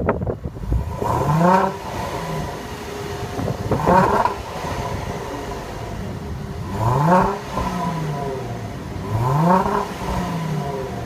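Supercharged 3.0-litre V6 of a 2014 Range Rover Sport, heard at the exhaust, revved four times from idle. Each rev rises quickly in pitch and falls back to idle, a few seconds apart.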